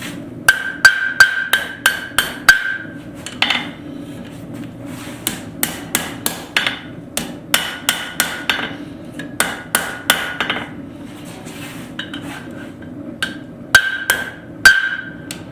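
Blacksmith's hammer striking hot steel tongs on an anvil to set the offset in the jaws, in three runs of quick blows with a ringing tone on each strike. A steady low hum runs underneath.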